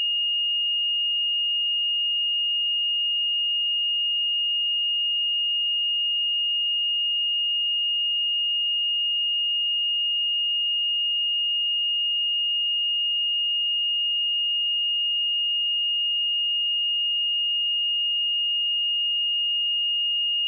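Steady pure sine-wave test tone at 2847 Hz, one unchanging high-pitched note with no other sound.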